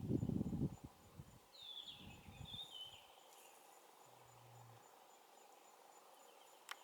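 Outdoor bush ambience: a steady insect drone with one falling, two-part bird call about two seconds in. Low rumbling noise in the first second is the loudest thing, and a sharp click comes near the end.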